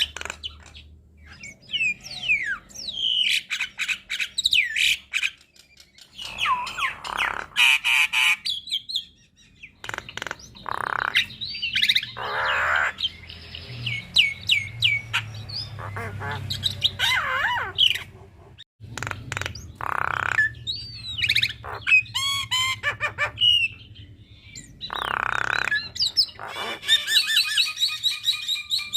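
Javan myna singing a varied song: runs of rapid clicks, gliding whistled notes and several harsh squawks, ending in a fast chattering trill.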